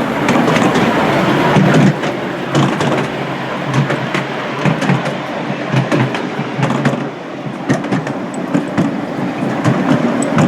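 Miniature railway train running along the track, with a steady rush of running noise and frequent irregular clicks from the wheels on the rails.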